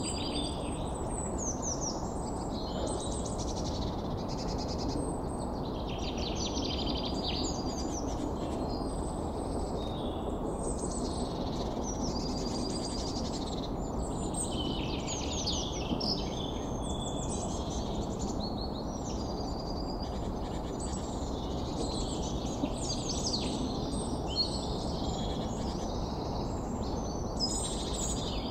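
Many birds chirping and calling in quick, overlapping chirps and trills, some falling in pitch, over steady low background noise.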